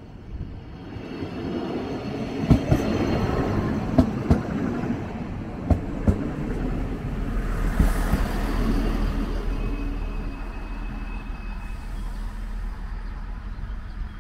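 DB class 643 (Bombardier Talent) diesel multiple unit pulling into the station: a rising rumble with wheels clicking over rail joints several times, then a steady low hum from its engines as it slows and stands, with a brief high squeal near the end.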